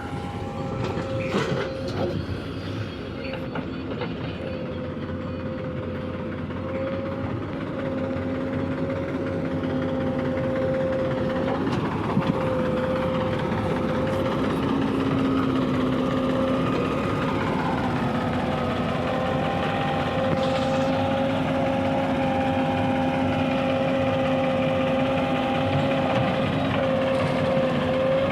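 Diesel earthmoving machinery running steadily, its engine note carrying a held whine that grows louder over the first ten seconds or so. A few sharp knocks come in the first two seconds.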